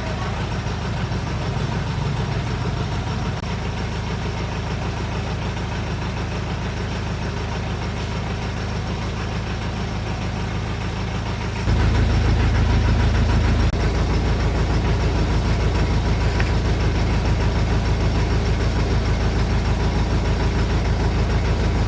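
Vehicle engine running steadily. About twelve seconds in it gets suddenly louder and stays at the higher level.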